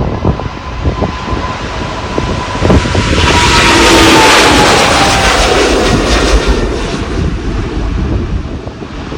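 Jet airliner's engines passing during a takeoff run, swelling to a peak about four seconds in and then fading, with a whining tone that drops in pitch as it goes by. Wind buffets the microphone throughout.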